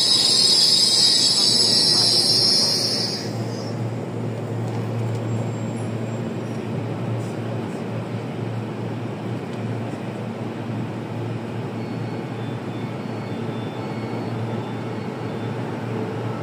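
EMU3000 electric train moving along the platform with a loud high-pitched squeal that cuts off about three seconds in. A steady low hum of the station and trains follows.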